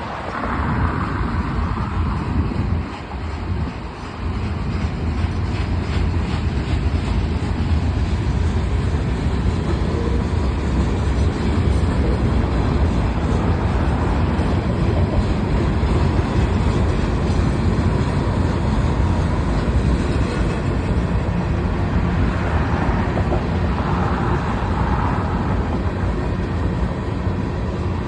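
Freight cars of a Union Pacific manifest train rolling past, a steady deep rumble of wheels on the rails.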